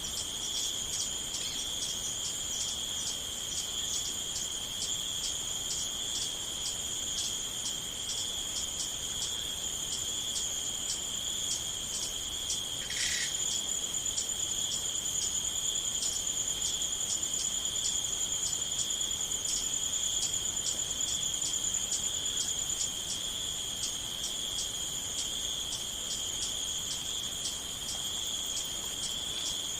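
Crickets chirping in a chorus: a steady high trill with regular pulsed chirps, about three a second, over it. One short chirp stands out about halfway through.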